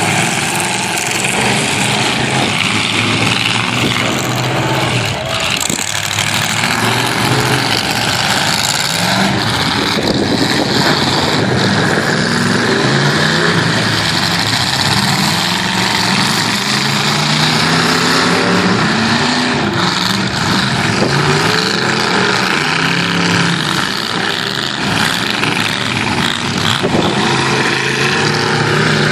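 Several half-ton pickup truck engines revving and running hard in a demolition derby, their pitch rising and falling over and over.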